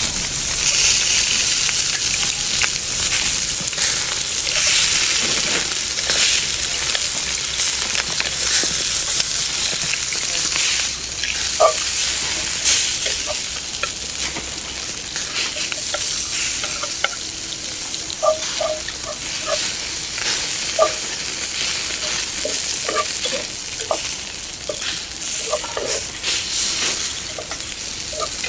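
Meat frying in hot fat in a pot, a loud, dense sizzle. From about halfway on there are short squeaks and scrapes as it is stirred.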